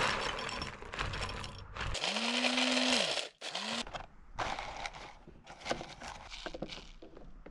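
Small electric coffee grinder grinding beans in two short pulses, the motor spinning up and winding down each time, with scraping and clatter of handling before and after.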